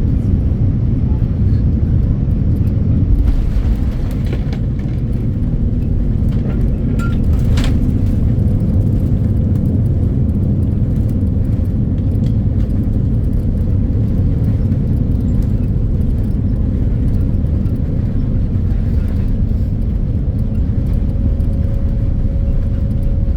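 Steady low rumble inside a Boeing 787-9 Dreamliner's cabin, with a faint steady tone and a short click about seven and a half seconds in.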